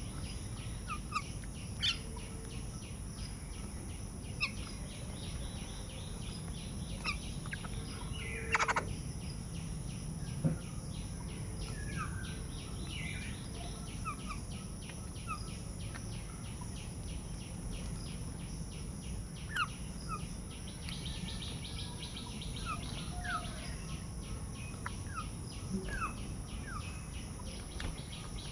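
Wild birds giving scattered short chirps and calls over steady outdoor background rumble, with a fast, even faint ticking underneath.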